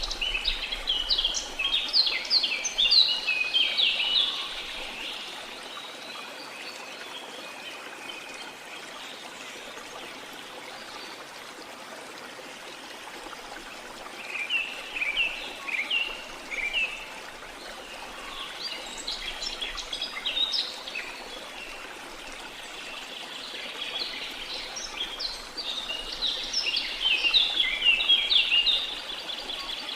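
Steady rush of a rainforest waterfall, with birds singing in bouts of quick chirps: a burst at the start, two shorter ones around the middle, and the loudest spell near the end.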